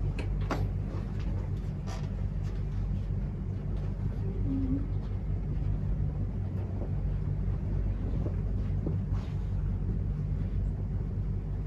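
Steady low rumble and hum of background noise, with a few light knocks: one near the start, one about two seconds in and one near the end.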